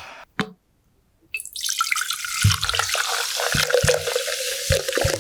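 Water running from a tap into a sink, starting about a second in as a steady rush, with a series of low knocks under it.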